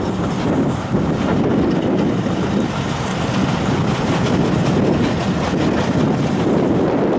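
Passenger coaches of a train hauled by an S160 steam locomotive rolling past close by, a steady rumble of wheels on the rails.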